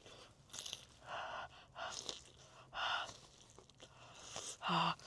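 A person eating sauce-dipped Korean fried chicken close to the microphone: four short bursts of crunching and chewing about a second apart, the loudest near the end with a brief voiced hum.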